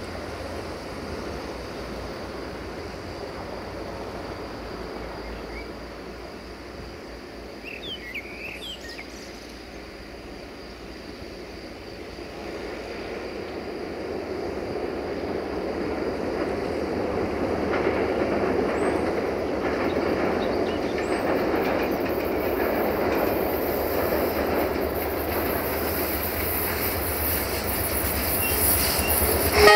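Approaching diesel-electric locomotive, a Romanian Class 65 "GM" hauling passenger coaches, with engine and wheels on the rails rumbling faintly at first and growing steadily louder over the second half as the train draws near. A few brief bird chirps come about eight seconds in.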